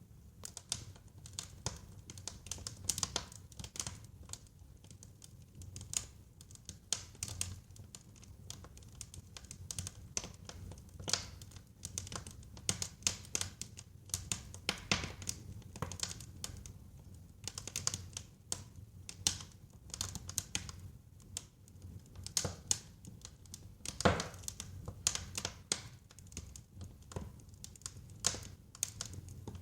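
Wood fire crackling and popping: irregular sharp snaps over a low, steady rumble of burning logs, with one louder pop near the end.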